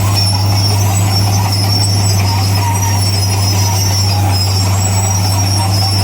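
Bulldozer working: its diesel engine drones steadily, with high intermittent squealing typical of steel crawler tracks.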